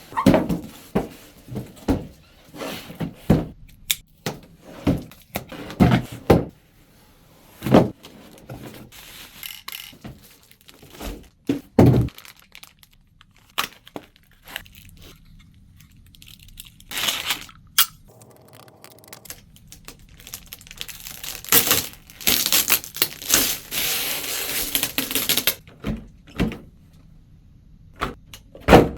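Unboxing handling noise: a run of separate knocks and clicks as a box, packaging and an RC short-course truck are handled, with a longer rustling stretch of about four seconds past the middle.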